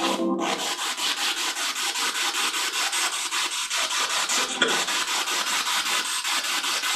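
Spirit box radio sweeping through stations: a steady hiss of static chopped about five or six times a second as it jumps from frequency to frequency.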